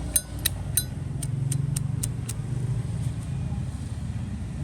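Zippo lighter lid being flicked open and snapped shut over and over, sharp metallic clicks about three a second that stop a little past two seconds in; the lid's click has been adjusted. A steady low vehicle engine rumble runs underneath.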